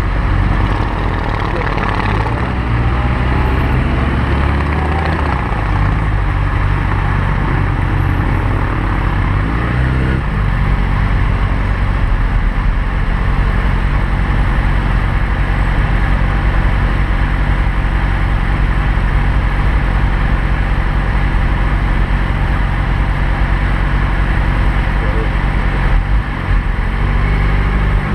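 A motor vehicle's engine running with a steady low drone. Its pitch shifts a few times in the first ten seconds, then it holds steady, with a brief dip near the end.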